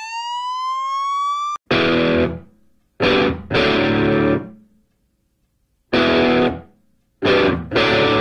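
A police siren winding up in a rising wail, cut off about a second and a half in. Then distorted electric guitar chords played in short, loud stabs with gaps of silence between them.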